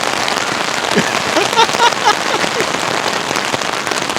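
Heavy rain pouring down, a steady hiss of downpour on surfaces.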